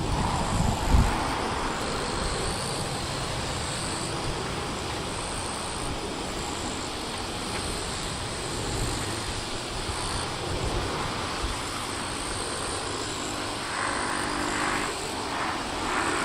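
Boeing 777-200ER airliner's jet engines heard from beside the airport, a steady rumble and hiss that holds level. Wind thumps on the microphone about a second in.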